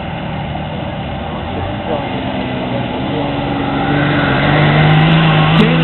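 Diesel pickup engine running, growing louder over the second half as its steady note strengthens.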